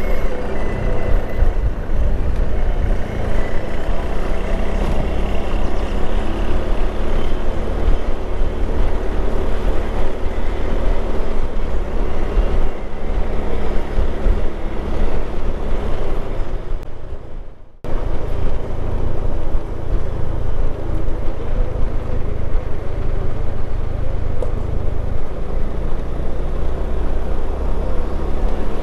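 Motorcycle running steadily while riding, engine and road rumble throughout. About 17 seconds in the sound fades and briefly drops out, then comes back at the same level.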